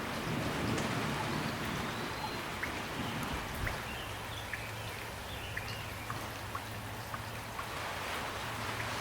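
Steady rain falling, with scattered single drops ticking distinctly on a surface through the second half.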